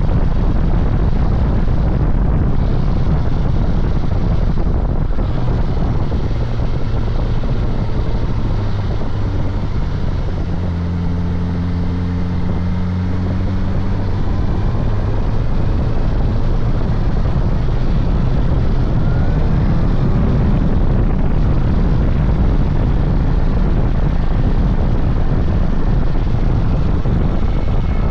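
Suzuki GSX-S1000GT's inline-four engine running while under way, mixed with heavy wind rush on the rider's microphone. About ten seconds in, the wind eases and the engine comes through as a steady, even hum for a few seconds before the wind noise rises again.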